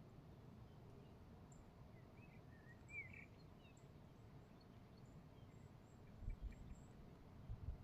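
Quiet outdoor nature ambience with a faint low rumble, a few short bird chirps about two to three seconds in, and some low thumps near the end.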